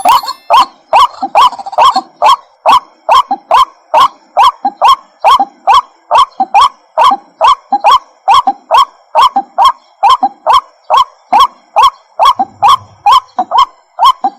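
White-breasted waterhen calling: a fast, even run of loud, short repeated notes, about three a second.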